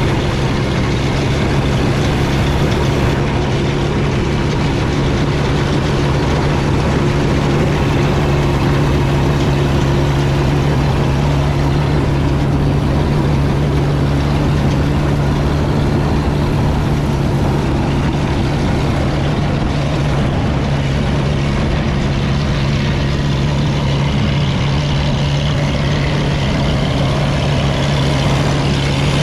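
The 5.1-litre single-cylinder diesel of a 1955 Field Marshall Series 3 tractor running steadily at an even speed, with a continuous mechanical noise over the engine's low hum.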